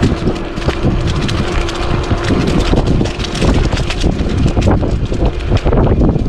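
Wind buffeting a bike-mounted action-camera microphone while e-bike tyres roll over a leaf-strewn woodland path, with many sharp crackles and clicks. A steady low hum runs through the first half and then fades out.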